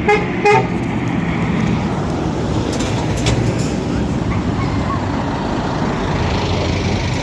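A truck's horn gives two short toots about half a second apart near the start. Steady truck engine and road noise continue underneath.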